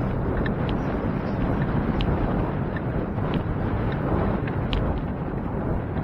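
Wind buffeting the microphone of a moving bicycle, a steady rushing rumble, with scattered faint clicks and rattles.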